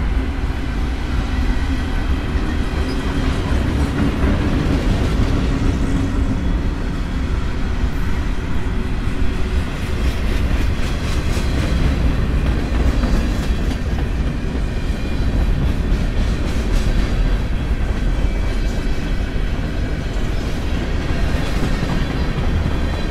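Norfolk Southern freight train passing close by. The trailing diesel locomotives drone for the first few seconds, then loaded freight cars (covered hoppers and tank cars) roll past with a steady rumble and a rhythmic clack of wheels over the rail joints.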